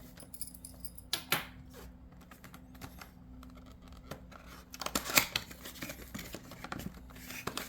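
Cardboard box being handled and opened: a couple of sharp clicks about a second in, then bursts of scraping and scratching of cardboard and plastic packaging about five seconds in and again near the end.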